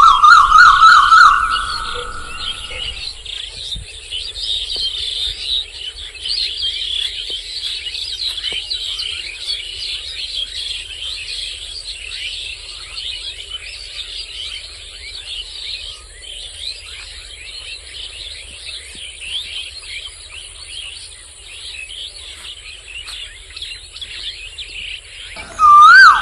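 A flock of small birds chirping and chattering together in a dense, continuous twitter. A loud warbling, siren-like whistle rides over it for the first few seconds and comes back near the end.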